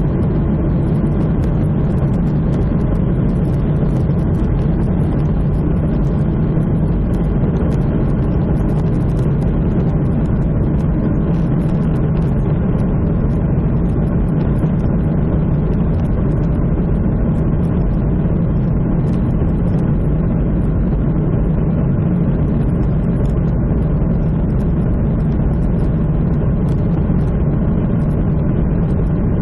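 Jet airliner's engines running with a steady low hum that neither rises nor falls.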